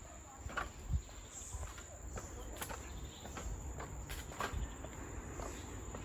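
Insects trilling in tropical forest, a steady high-pitched drone, with a few footsteps on the path.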